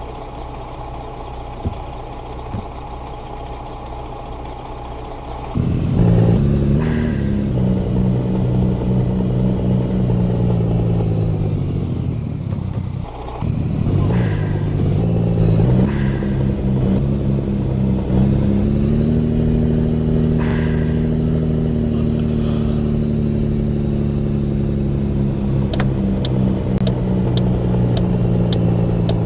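Heavy truck's diesel engine idling, then revving up sharply after about five seconds and running hard with its pitch rising and falling. It drops away briefly near the middle, then climbs again and holds a steady high pitch.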